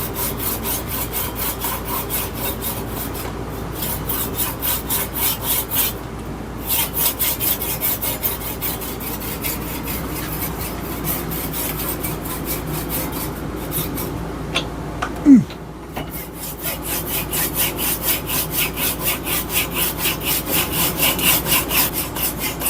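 Hand saw cutting off the protruding end of a black locust hammer handle flush above the wedged head, in a steady rhythm of back-and-forth strokes. The sawing pauses briefly about six seconds in, and a short sharp squeak with falling pitch, the loudest sound, comes about fifteen seconds in before the strokes resume.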